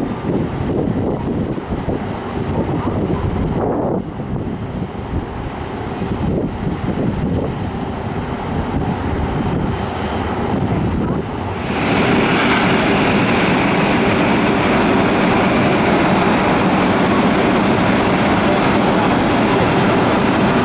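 Jet engines of a Boeing 747-400 airliner: an uneven low rumble, then about twelve seconds in an abrupt change to a louder, steadier jet noise that reaches much higher in pitch.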